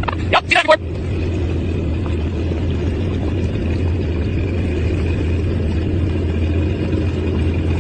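Boat engine running steadily, an even low drone, with a brief voice right at the start.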